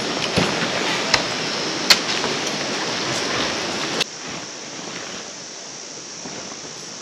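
Mountain stream water rushing steadily, with a few sharp clicks in the first two seconds. About four seconds in it drops suddenly to a quieter, steady rush.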